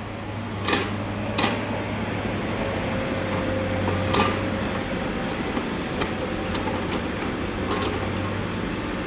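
Vehicle engine running steadily with a low hum, with a few light knocks over it.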